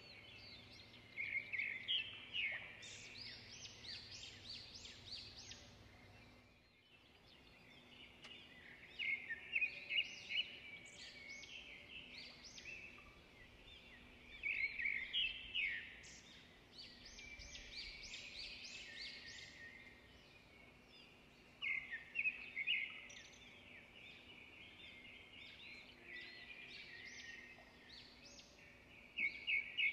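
Small birds chirping in repeated bursts of quick, high notes every several seconds, over a faint steady hum.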